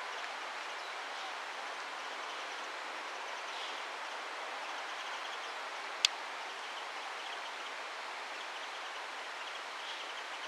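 Steady outdoor background hiss with a few faint, high, short calls of Japanese white-eyes, and one sharp click about six seconds in.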